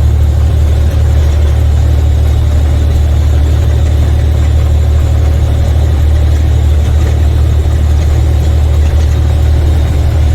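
Semi truck's diesel engine running steadily, a loud, even low drone with road and wind noise over it.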